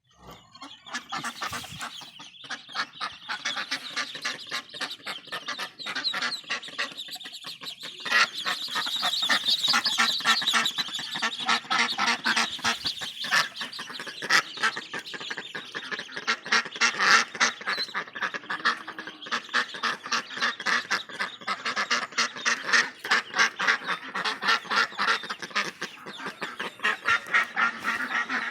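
Ducks and their large brood of ducklings calling nonstop, a dense chorus of many short calls.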